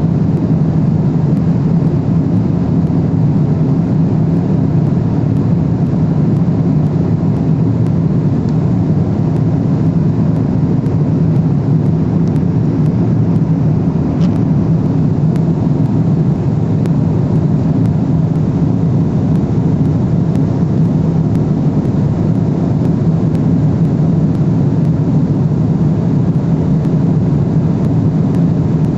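Steady cabin drone of a Boeing 777-300ER airliner in cruise: engine and airflow noise heard from inside the cabin, an even rush with a strong low hum and no change.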